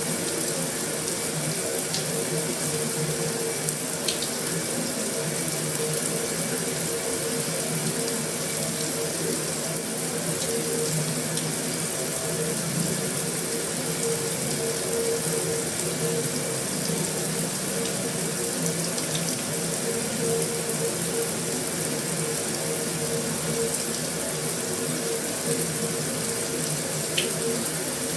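Heavy rain falling steadily on a metal roof, an even rushing patter with a few faint sharper ticks now and then.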